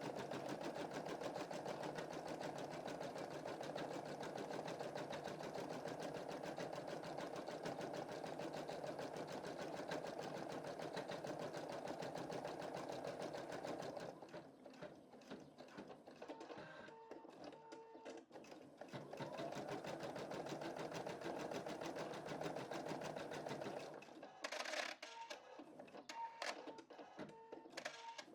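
Embroidery machine stitching a design, a dense, fast, steady stitching sound. About halfway through it turns sparser and uneven, and near the end come sharp clicks and a run of short, repeated high tones.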